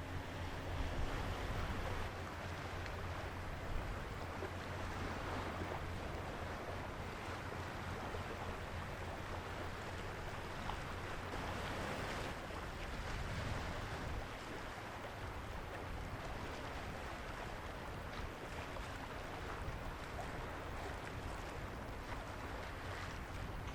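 Steady low hum of the lake freighter John G. Munson's diesel engines, under a constant rush of wind and water.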